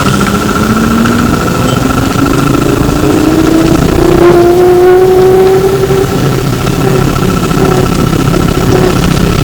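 Flyer E902 trolleybus heard from inside, its electric traction motor whine rising steadily in pitch for about five seconds as the bus gathers speed, then fading out, over a constant rumble of road and body noise. A steady high-pitched tone runs underneath throughout.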